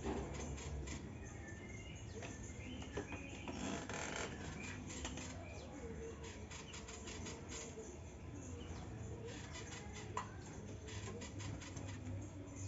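Young white-rumped shamas in an aviary: faint scattered chirps and short squeaky calls, mixed with light ticks and rustles of the birds moving about.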